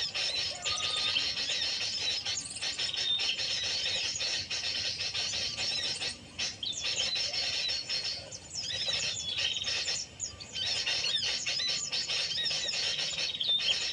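Many small birds chirping and squeaking over one another in a dense, high-pitched chorus, with brief lulls about six, eight and ten seconds in.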